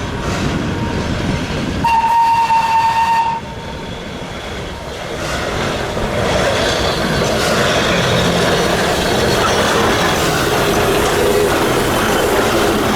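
Steam whistle of a Shay-type geared steam locomotive, one steady blast of about a second and a half about two seconds in. After it comes a steady rushing noise that grows louder about six seconds in.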